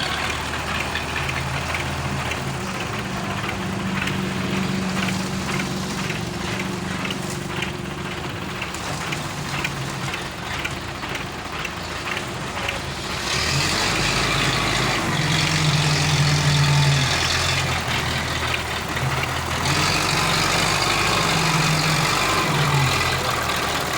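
Old Belarus tractor's diesel engine running, with a regular knock about twice a second at first. About halfway through it grows louder and harsher, its pitch shifting up and down.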